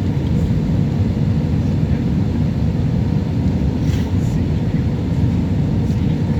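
Steady low roar of an Airbus A320 airliner heard from inside the cabin in flight, engine and airflow noise with a faint constant hum, unchanging throughout.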